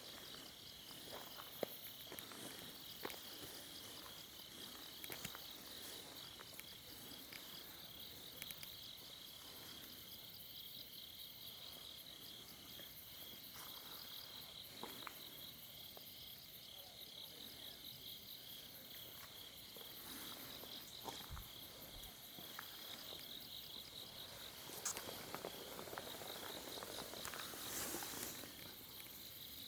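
Insects chirping in a steady, pulsing high trill, with occasional faint clicks and rustles.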